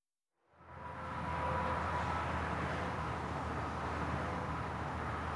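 Steady motor-vehicle running noise with a low hum and a few faint steady tones, fading in from silence within the first second.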